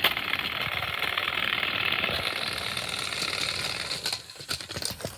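Two motorized toy train engines pushing against each other, their small electric motors and gears whirring steadily, then breaking up into clicks and rattles after about four seconds.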